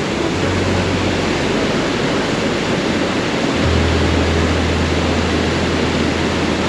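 Upper Kananaskis Falls in heavy flow, a lot of water coming down: a loud, steady rush of falling water.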